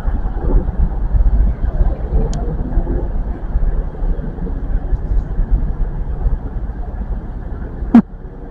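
A train running at the station platform: a steady, uneven low rumble. A single sharp click comes near the end.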